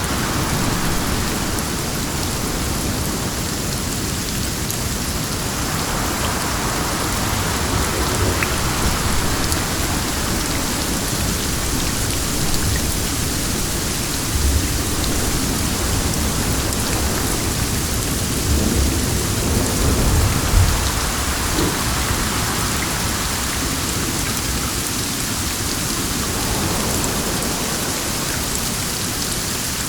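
Steady rain falling, with low rumbles of thunder swelling several times through the middle stretch, loudest about two-thirds of the way in.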